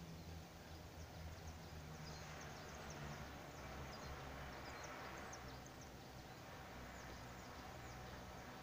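Faint outdoor ambience: small birds chirping in many brief, high notes, over a soft rushing that swells and fades in the middle.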